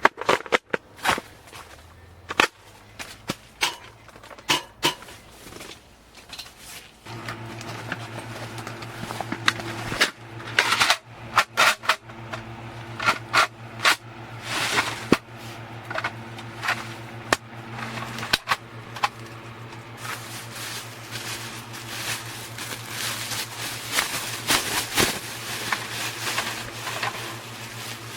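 Irregular clicks, taps and knocks, sometimes several a second, with a steady low hum joining about seven seconds in.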